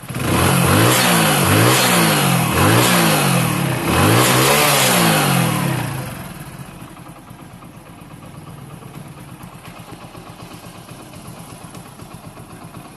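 Hero Honda 100cc single-cylinder motorcycle engine revved in about four quick throttle blips, then settling to a steady idle about six seconds in. It is running with its loose crank flywheel/balancer nuts, the cause of the earlier knocking, now tightened.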